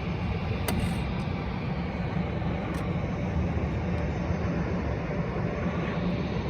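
Jet airliner engine noise: a steady low rumble with a hiss above it, with a faint click about a second in.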